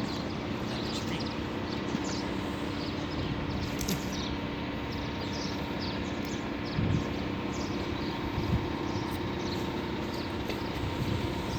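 Steady outdoor street hum of traffic, with many short, high bird chirps scattered over it and a couple of dull thumps.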